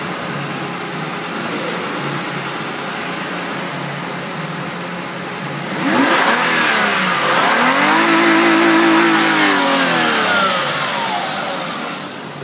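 A Mazda MPV's 3.0-litre DOHC 24-valve V6 petrol engine idling steadily, then revved sharply about halfway through. It holds the higher revs for a few seconds, then falls back toward idle near the end.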